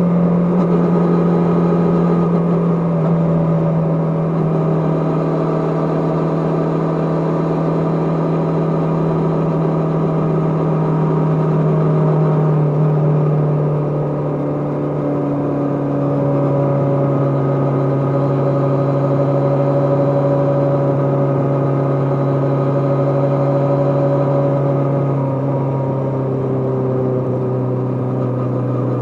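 Kawasaki GPZ550's air-cooled inline-four engine pulling the bike along at a fairly steady speed. The engine note holds steady and drops a little lower twice, around the middle and near the end, as the revs ease off.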